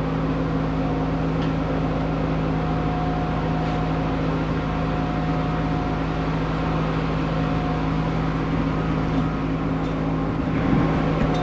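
Welding equipment running while the worn skid of an MTD snowblower is welded: a steady machine hum under an even, dense noise that carries on without a break.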